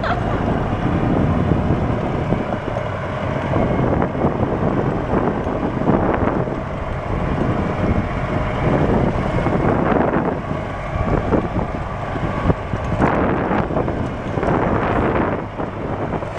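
A golf cart driving along, with wind buffeting the microphone and irregular surges of noise over the cart's running sound.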